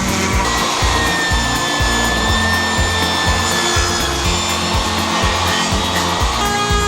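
A tool working a plywood shelf piece, heard as a steady noise under background music with a regular beat.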